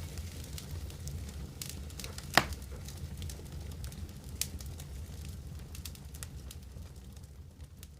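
Wood fire crackling in a fireplace: irregular sharp pops and snaps over a low steady rumble, with one loud pop about two and a half seconds in, fading down near the end.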